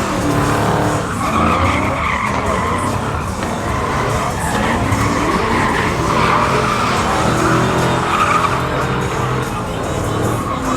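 A truck doing a burnout: the engine held at high revs while the tyres spin and squeal, the squeal swelling and easing several times.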